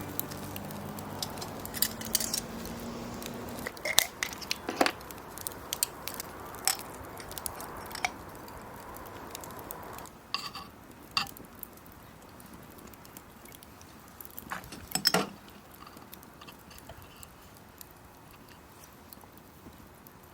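Scattered clicks and knocks of utensils and dishes being handled, over a faint sizzle of frying food that fades out about halfway.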